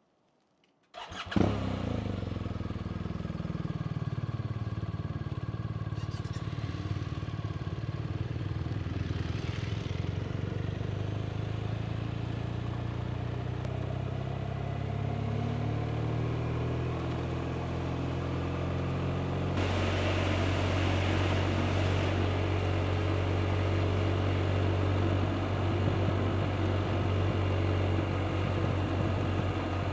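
BMW R 1250 RT's boxer twin starting with a short burst about a second in, then running steadily. About twenty seconds in it gets louder and harsher and stays that way.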